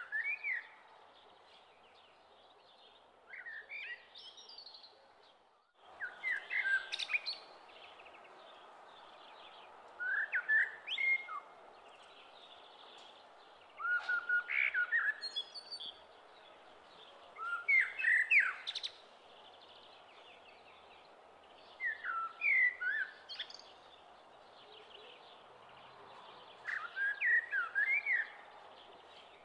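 Birds chirping in short bursts of song every few seconds over a steady hiss.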